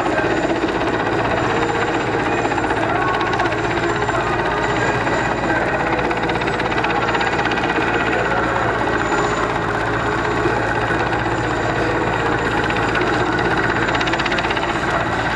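Helicopter flying overhead, its rotor beating in a steady, rapid pulse.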